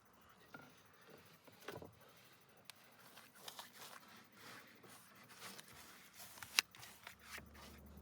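Faint rustling and scraping strokes with scattered light clicks, and one sharper click about six and a half seconds in: handling or work noises.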